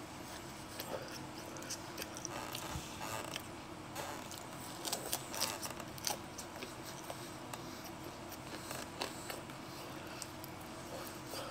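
Close-up mouth sounds of someone chewing air-fried pepperoni pizza: scattered short clicks and crackles, busiest about five seconds in.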